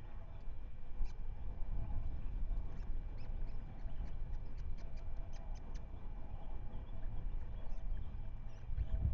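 Wind rumbling on an outdoor microphone, with a quick scattered series of short, high bird chirps, several a second, thickest in the middle.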